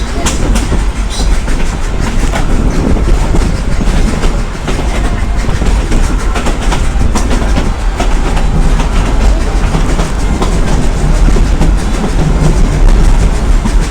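Steam train heard from aboard while running: a steady loud rumble with the wheels clicking over rail joints.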